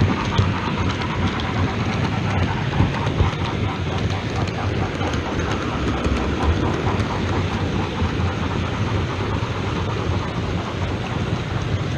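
OO gauge model trains running on the layout's track: a steady rumble of wheels on rail with many small clicks over the rail joints.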